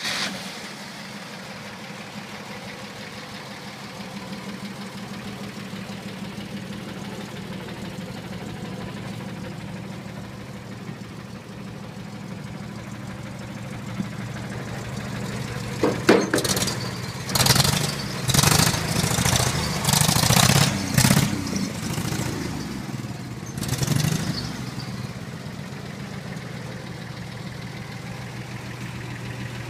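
1951 Chevrolet pickup truck's engine idling steadily, with a series of throttle blips in the middle, four or five loud revs over about eight seconds, before it settles back to idle.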